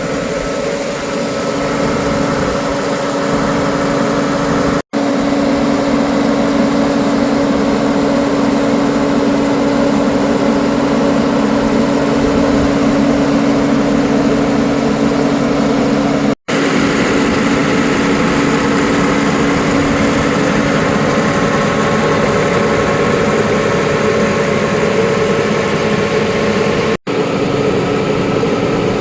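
New Holland T7.260A tractor's 6.7-litre six-cylinder diesel engine running steadily, cut off for a split second three times.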